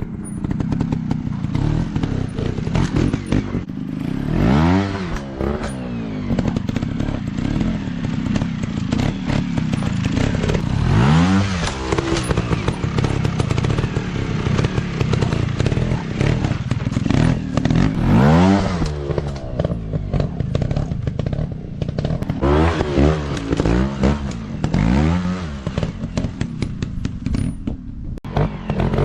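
Off-road dirt bike engines running, with the throttle blipped in repeated bursts, each one a rising and falling engine note, over a steady rumble and loose clatter.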